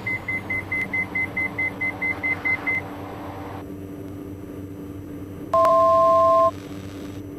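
Cockpit warning beeps in a Diamond DA42 twin as its left engine is feathered: a rapid high beep, about four or five a second, stops about three seconds in. Near the end a single loud two-note alert tone sounds for about a second, over the steady drone of the running engine.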